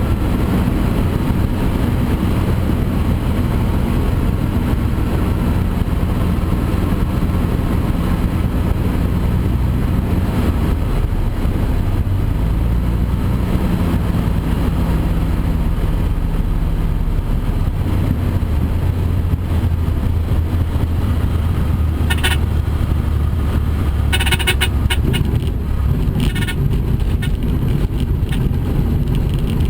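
Cessna L-19 Bird Dog's six-cylinder Continental O-470 piston engine and propeller droning steadily, the engine note shifting in pitch a few times. A cluster of short crackles comes about three quarters of the way through.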